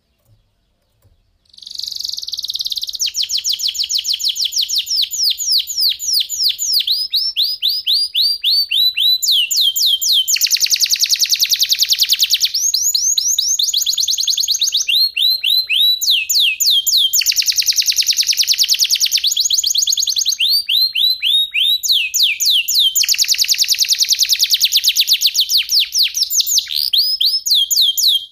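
Domestic canary (F1SF kenari) singing one long unbroken song of fast rolling trills and rapid repeated high notes. It starts about a second and a half in and cuts off abruptly at the very end.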